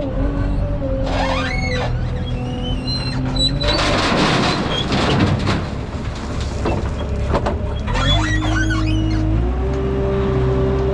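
Kubota wheel loader's diesel engine running under load, with a rushing noise for about two seconds near the middle, mixed with background music.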